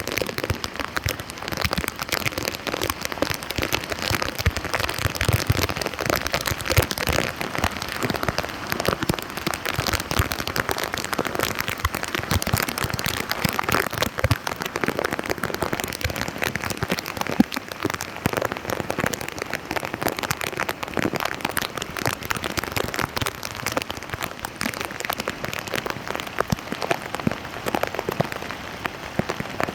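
Steady rain falling on a flooded street, a dense stream of small drop hits.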